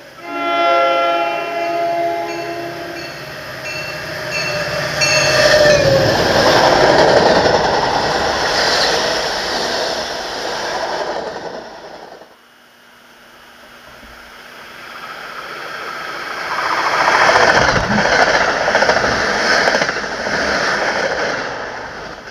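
A train horn sounds a long chord blast, then a shorter blast about five seconds in that drops slightly in pitch, followed by the loud rush of the train passing. The sound cuts off suddenly about twelve seconds in, and the noise of another passing train builds up, loudest near the end.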